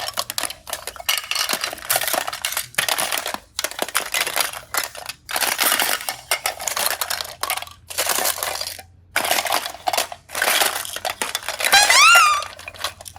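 Crackling, clinking handling noises in irregular bursts with short pauses, like small hard pieces being pressed and rattled. Near the end comes a brief wavering, whistle-like glide.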